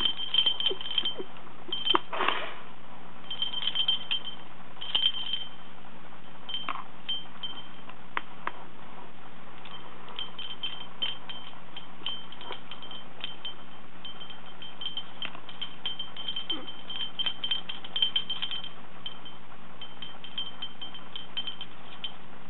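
Small bell on a parrot's toy jingling in repeated bursts as a quaker parrot plays with it, with a few sharp knocks and a quieter spell in the middle.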